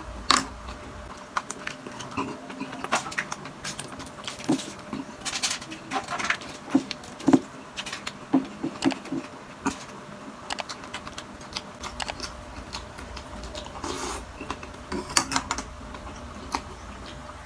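A person chewing crisp food close to the microphone, with irregular crunches and small wet clicks, and a metal spoon clinking against a glass cup near the start.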